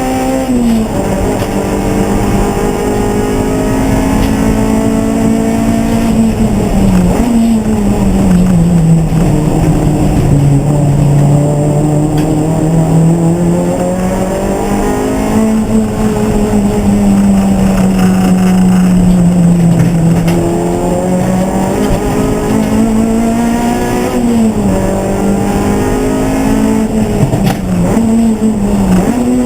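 Race car engine running hard and continuously, its note climbing and falling over several seconds at a time as it accelerates and slows through corners, with sharp drops in pitch about seven seconds in and again near the end.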